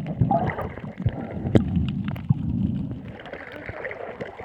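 Water sloshing and gurgling around a boat, with wind buffeting the microphone and a few scattered knocks. Faint voices come through in the background.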